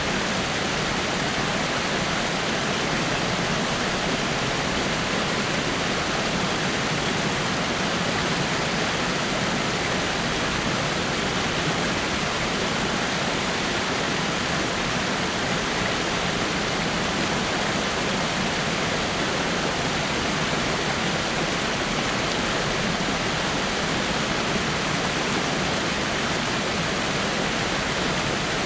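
Water falling over rocks in a small waterfall: a steady, even rushing with no breaks or changes.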